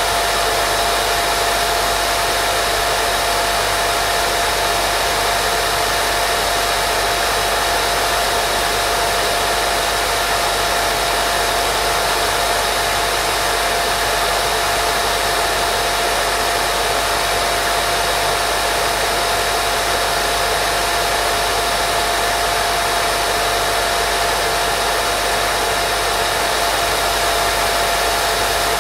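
Steady, unbroken white noise for baby sleep: an even hiss with a constant tone running through it, like a hair dryer or fan.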